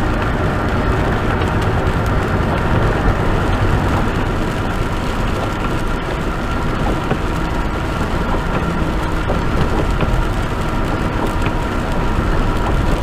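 Steady road noise inside a tractor-trailer's cab as it drives on wet pavement: engine and tyre noise.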